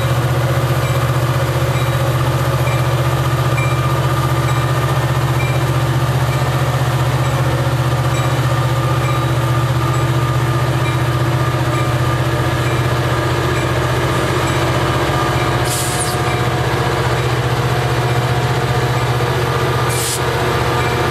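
Diesel freight locomotive engine running at a steady, unchanging pitch, a loud low hum. Two short hisses cut in, about 16 s in and again near the end.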